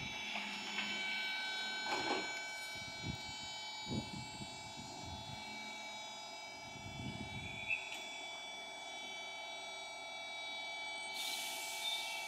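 Electric train standing at a station platform, its electrical equipment giving a steady whine of several stacked tones. A few low knocks come in the first half, and a short hiss near the end.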